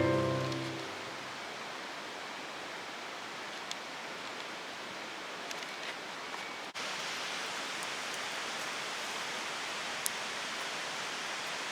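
Steady rush of flowing water from a stream or river, an even hiss with a few faint ticks on top; it steps slightly louder at an abrupt cut about seven seconds in.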